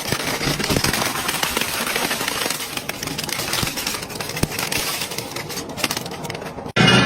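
Industrial crushing machine breaking up material: a dense, continuous crackling and crunching with many small snaps, cut off abruptly near the end.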